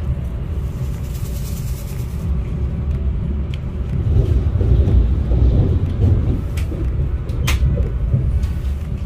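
Low rumble of a passenger train running at speed, heard from inside the carriage. It swells about halfway through, with a few sharp clicks over it, the loudest near the end.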